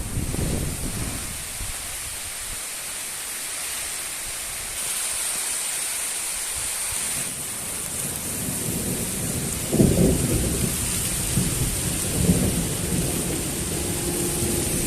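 Steady rain hiss, with short low rumbles about ten and twelve seconds in.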